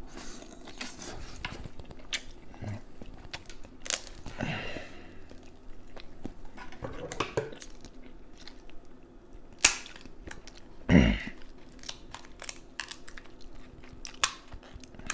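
Close-up chewing and wet mouth sounds of a person eating king crab meat, with many small clicks as the crab leg is picked apart by hand. A single heavy thump comes about eleven seconds in.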